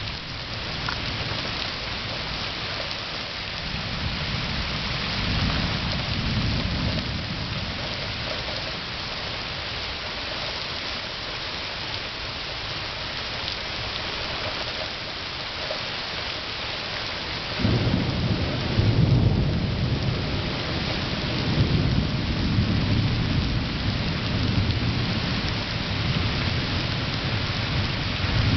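Steady rain falling with rolling thunder. A low rumble swells a few seconds in; a little past halfway a loud thunderclap breaks in suddenly and keeps rumbling.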